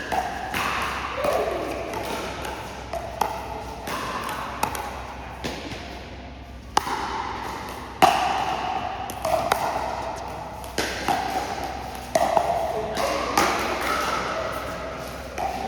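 Pickleball paddles hitting a hollow plastic pickleball in a rally, a run of sharp pops with a short ringing ping, coming about every half-second to second.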